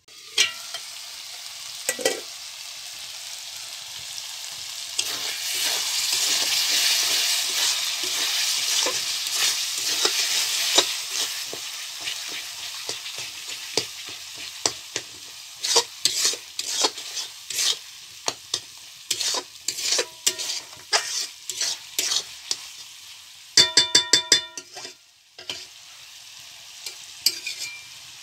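Goat liver, lung and stomach masala sizzling in a steel kadhai while a metal spatula stirs and scrapes through it. The spatula clinks against the pan again and again, with a quick run of ringing metal strikes near the end.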